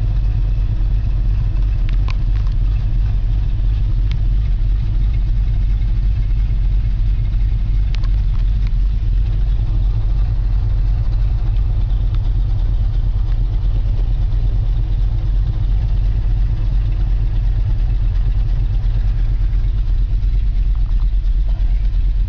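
1964½ Ford Mustang engine idling steadily, heard from inside the cabin. It is running again after a year and a half of sitting.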